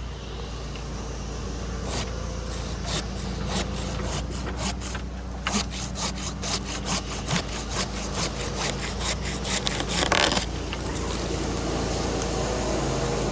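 Handsaw cutting wood in quick, regular strokes, about three or four a second, that stop suddenly near the end, over the steady low hum of an idling engine.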